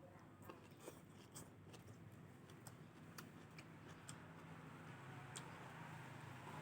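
Faint eating sounds close to the microphone: soft, irregular clicks and crackles of chewing food, over a low steady hum.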